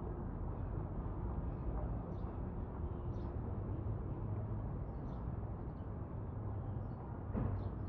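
Ambient background: a steady low rumble and hum with faint, short, high bird chirps now and then, and a brief knock near the end.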